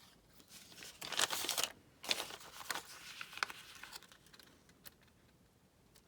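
Paper rustling and crinkling as it is handled and pressed down. It comes in a few short bursts, the longest about a second in, and is quieter after about four seconds.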